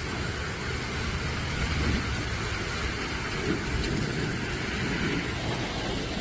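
Steady noise of heavy rain mixed with road traffic, a continuous rumble without breaks.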